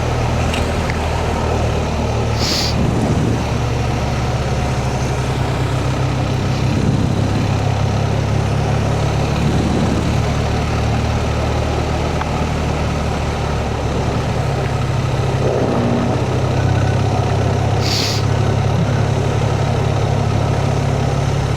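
Motorcycle engine running steadily at an even, low throttle while riding, with two brief hisses, one about two and a half seconds in and one late on.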